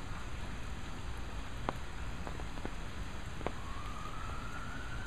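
Steady rain falling, with a few sharp drips or splashes. About three and a half seconds in, a thin high tone starts and rises slowly.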